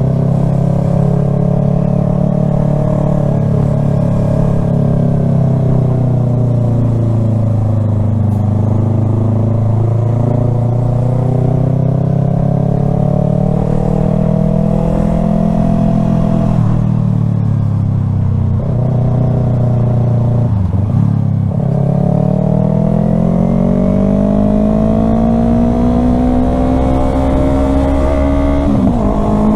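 Yamaha R3 parallel-twin motorcycle engine running through traffic, its pitch rising as it accelerates and sagging as it eases off, with a few sudden drops at gear changes, the last near the end.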